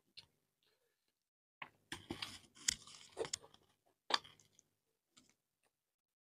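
Close-miked chewing of a mouthful of rice and chicken curry, in bursts for about two seconds after a quiet start, then one sharp click a little later.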